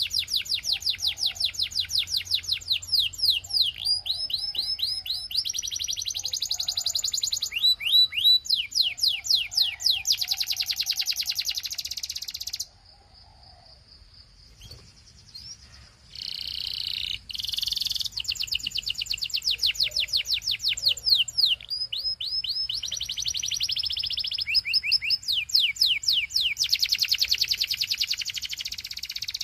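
Belgian canary singing a long song of rapid trills and rolls, each made of fast repeated high notes, some phrases gliding down and others held as dense buzzing rolls. The song breaks off for about three seconds near the middle, then resumes.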